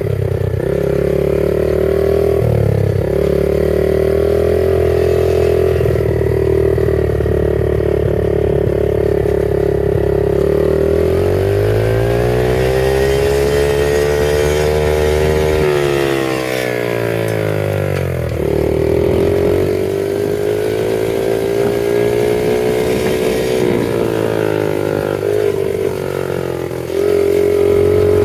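Small single-cylinder four-stroke 70cc pit bike engine running steadily, then its pitch rises and falls back in a smooth sweep about halfway through before it settles again.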